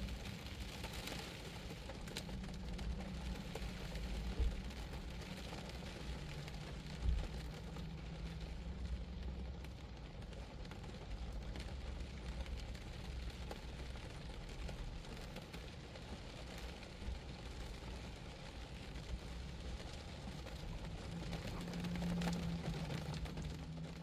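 Rain falling on a Geo Metro's body, a steady patter of drops over a low steady hum, with two louder knocks about four and seven seconds in.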